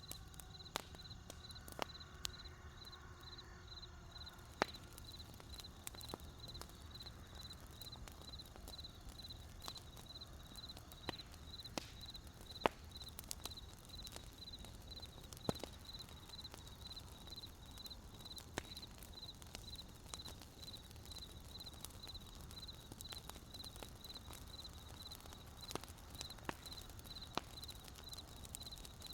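Cricket chirping steadily in rapid, even high-pitched pulses, over burning campfire wood crackling with sharp, irregular pops.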